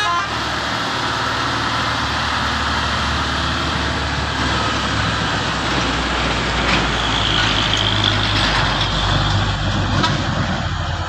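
Heavy truck's diesel engine running steadily, with road noise.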